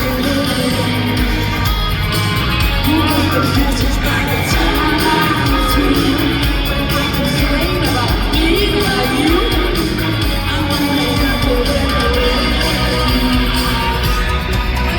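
Live rock band playing with sung vocals, recorded on a phone from the audience in a large concert hall.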